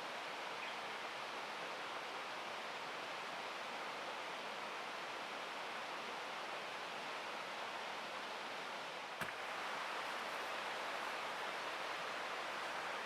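Steady rushing of a mountain stream, with a single sharp click about nine seconds in, after which the rushing is slightly louder.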